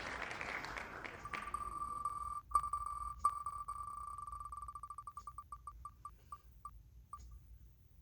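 Electronic random-letter picker beeping as it cycles: a steady high beep breaks into rapid beeps that slow down until they stop, like a spinner coming to rest on a letter. Two sharp clicks sound early on.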